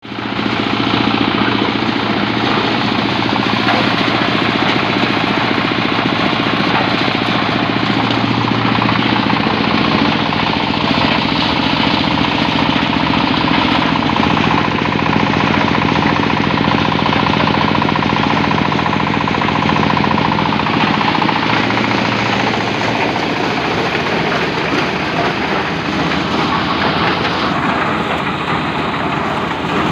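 A motor-driven corn sheller running, loud and steady: a fast dense rattle over a constant engine drone, the machine built to thresh corn still in its husks.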